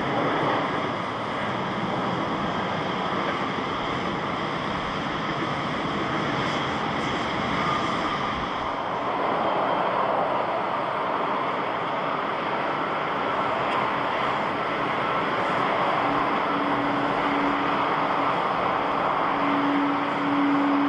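Jet airliner engines running with a steady, loud rush of noise. About two-thirds of the way through, a steady low hum joins in, cutting in and out.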